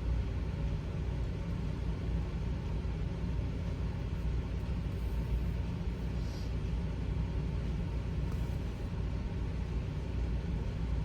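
Steady low rumble of background noise, even and unchanging, with a faint brief hiss about six seconds in.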